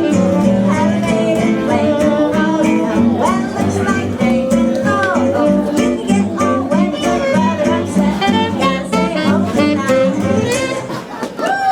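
Live swing jazz from a small band with guitar, bass, violin and reeds, playing the closing bars of the tune over a steady stepping bass line. The music dips briefly near the end.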